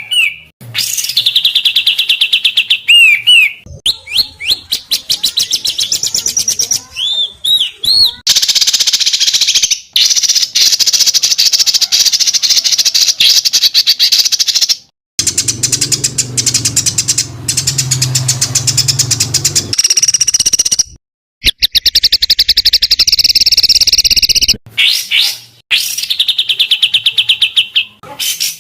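Songbirds singing dense, rapid trills and sharp repeated chip notes, one phrase after another, with abrupt cuts and brief silences where recordings are spliced together.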